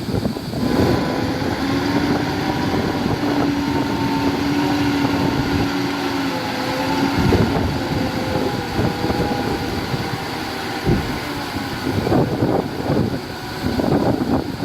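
Heavy diesel construction machinery running steadily, its engine note shifting a little in pitch, with wind noise on the microphone.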